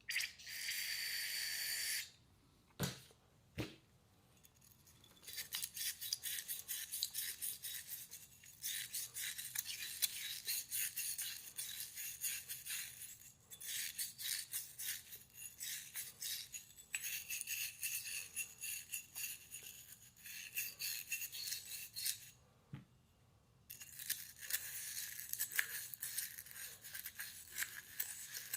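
A steady hiss for about two seconds at the start, then long runs of rapid scrubbing with a small stiff brush in quick short strokes, broken by a short pause about three quarters of the way through.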